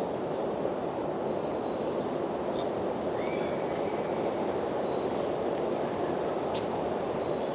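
Steady rushing outdoor background noise at an even level, with a few faint short high chirps and two brief faint clicks, about two and a half and six and a half seconds in.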